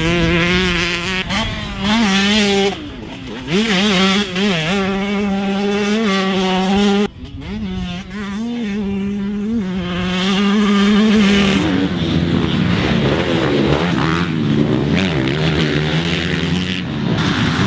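Motocross dirt bike engines revving on the track, the pitch rising and falling over and over as the throttle is opened and shut, with a sudden drop and pick-up about seven seconds in. From about twelve seconds the sound turns rougher and more mixed, as of more than one bike.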